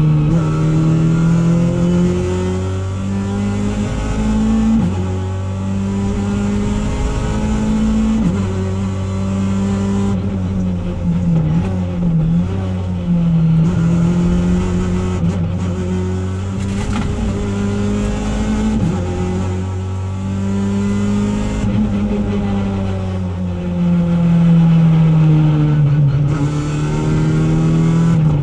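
Opel Adam R2 rally car's four-cylinder engine heard from inside the cabin at full stage pace, revving up and down through third and fourth gear: the pitch climbs under acceleration and drops sharply at each gear change, many times over.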